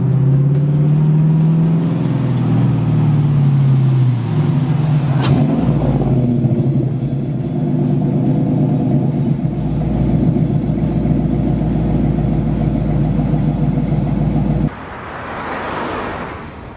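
The Chevelle's LS1 5.7-litre V8 runs with its pitch rising and falling as the car drives up, then settles into a steady, deep-rumbling idle. The engine sound cuts off suddenly near the end, and the rush of a passing car follows.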